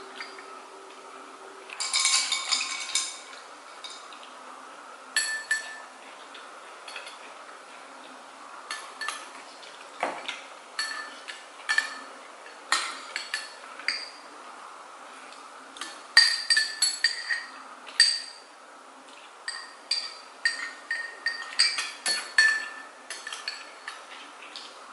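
Cutlery and dishes clinking during a meal: scattered sharp clicks and clinks, busiest about two seconds in and again in the second half.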